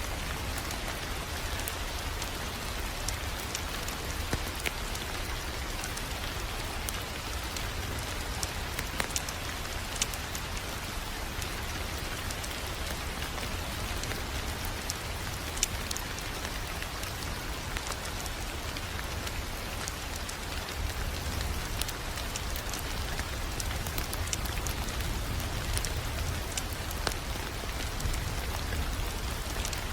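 Wood fire crackling in a fireplace: a steady hiss full of scattered sharp pops, a few of them louder, over a low rumble.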